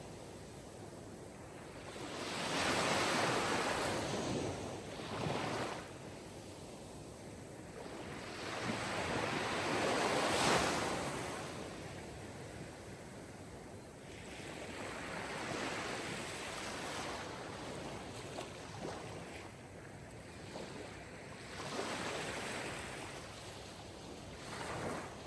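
Sea waves breaking on a shore: surf rising and falling in slow swells every several seconds, with some wind.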